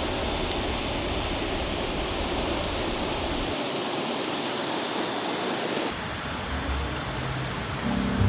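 Rushing river water, a steady even wash of noise. Low music notes come in near the end.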